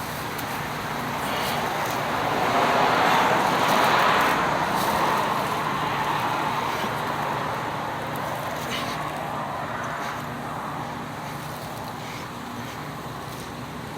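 A road vehicle passing by: a rushing noise that swells to its loudest about three to four seconds in and then slowly fades away.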